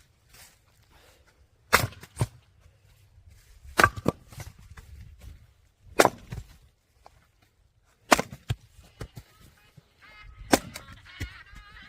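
Firewood being split: sharp chopping strikes about every two seconds, five in all, over a faint low rumble. A short honk-like call sounds near the end.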